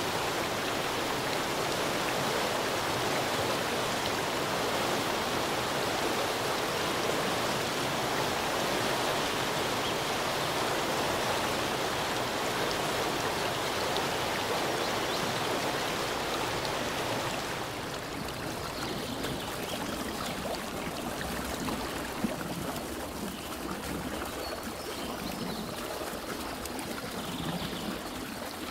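Steady rushing of a running stream. About two-thirds of the way through it cuts abruptly to a quieter, softer rush, with a single click a few seconds later.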